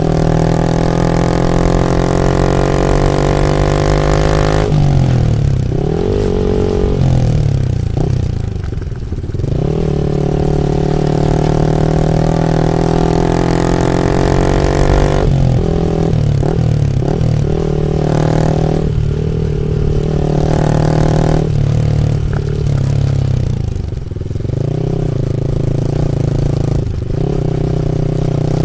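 Yamaha MT-15 V2's single-cylinder engine running loud through an Akrapovic full exhaust system. It holds steady revs for long stretches, and its pitch drops and climbs back several times.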